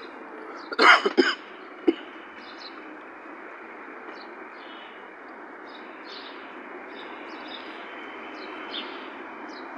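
Small birds chirping repeatedly over steady background noise, with a short, loud cough-like burst about a second in.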